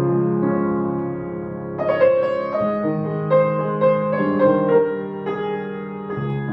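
Piano music: sustained low chords, with a higher melody of separate, accented notes coming in about two seconds in.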